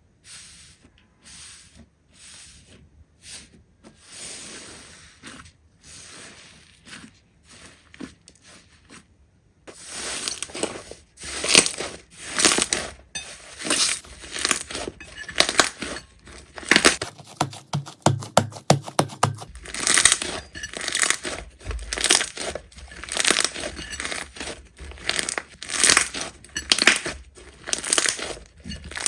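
Slime being squeezed and pressed, giving irregular crackling and popping clicks. It is quieter for the first third and louder and denser after that, with a short run of rapid, even clicks about two-thirds in.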